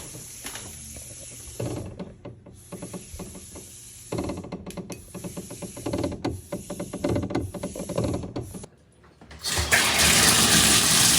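Water flowing through a shower valve while the valve and pipework rattle and knock irregularly: water hammer. About nine seconds in the flow cuts out briefly, then water rushes out loudly and steadily.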